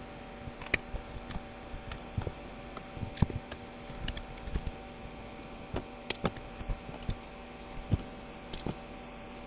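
Irregular sharp clicks and knocks of small plastic parts and tools being handled while a hair dryer is taken apart and rewired, over a steady low hum.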